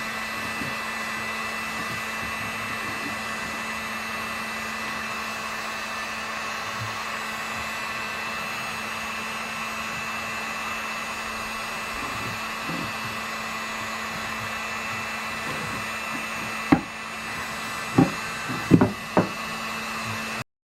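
Steady whirring of an electric blower or fan motor, with a low hum and a faint high whine. Near the end come four sharp knocks, wood or tools being handled.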